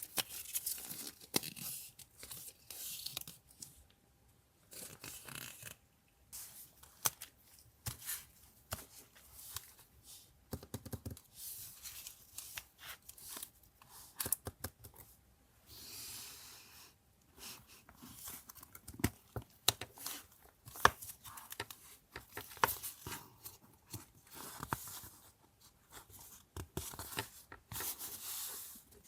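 Paper being torn and handled by hand: irregular tearing rips with crinkling rustles and small sharp taps in between.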